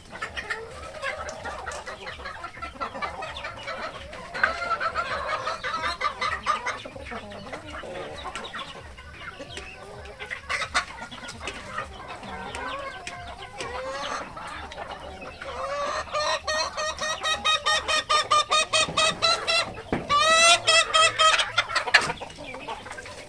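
Native chickens clucking and calling, building to a fast run of repeated calls, with a loud, drawn-out call about three seconds from the end.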